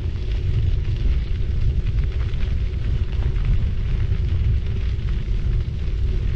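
Steady wind rumble on an action camera's microphone during a bicycle ride, over the hiss of the bike's tyres rolling on the road.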